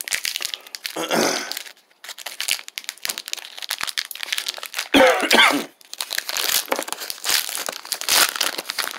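Plastic granola bar wrapper crinkling and tearing as it is handled and opened, a dense run of irregular crackles. Two short throaty sounds come through about a second in and about five seconds in.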